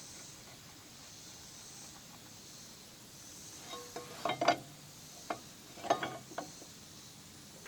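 Two short clusters of knocks and clatters from hard objects being handled, the first about four seconds in and the second about two seconds later, over a faint steady hiss.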